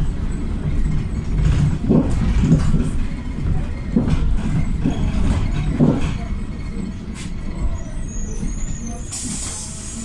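Inside a PAZ 320414-04 Vector bus on the move: a steady low rumble from its YaMZ-53423 gas engine and the road, with body knocks and rattles. About nine seconds in, a sudden hiss of compressed air from the bus's pneumatic system starts.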